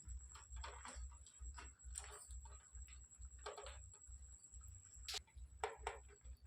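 Faint scattered clicks and a few short, soft chirps from a pet parrot.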